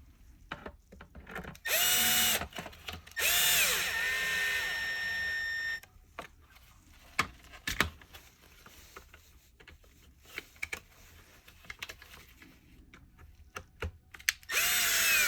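Cordless power screwdriver driving screws into a vacuum cleaner's power head: three runs of motor whine, a short one about two seconds in, a longer one whose pitch drops and then holds as the screw tightens, and another near the end. Small clicks and knocks of parts being handled come in between.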